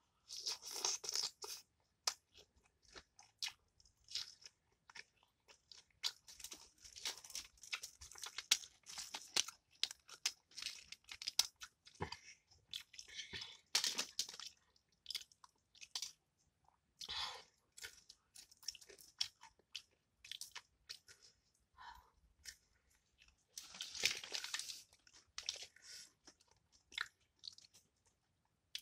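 Crunching and chewing of crispy fried fish, with many short irregular crackles and brief pauses.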